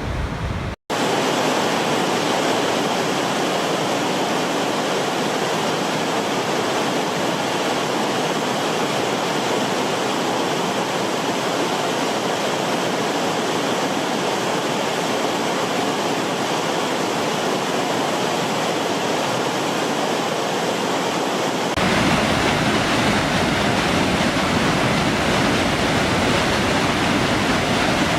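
Waterfall: a steady rush of falling water. It drops out for an instant just under a second in, then returns. About three-quarters of the way through it changes to a deeper, fuller rush.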